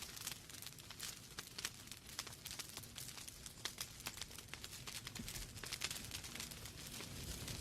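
Wood fire burning in a fireplace: logs crackling with many small irregular pops over a low rumble of the flames.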